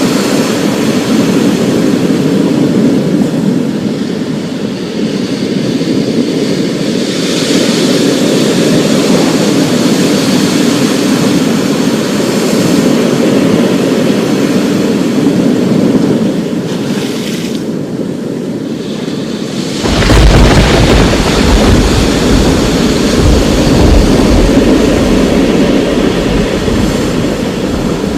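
Thunderstorm: a steady wash of rain-like noise under a constant rumble. About twenty seconds in, a deeper, louder roll of thunder sets in and keeps rumbling.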